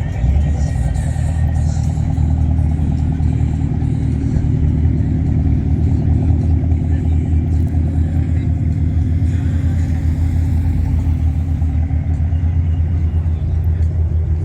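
Car engine idling steadily, a loud, low, even running sound.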